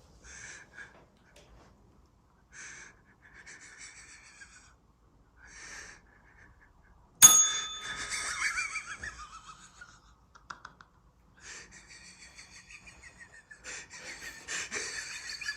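A person breathing hard in short hissing bouts, held back as if stifling a laugh or a gasp. About seven seconds in there is one sharp, ringing ding.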